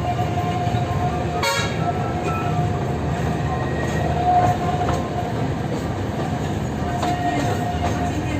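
Alishan Forest Railway train car running, heard from inside the carriage: a steady low rumble with a high steady whine, and one short sharp high-pitched sound about one and a half seconds in.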